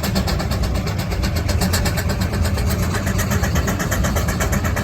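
Steam traction engine working under load pulling a plough, its exhaust beating in a rapid, even rhythm over a steady low rumble.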